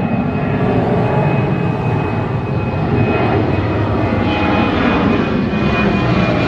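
Airliner engines running loud and steady: a deep rumble with a thin, steady high whine over it.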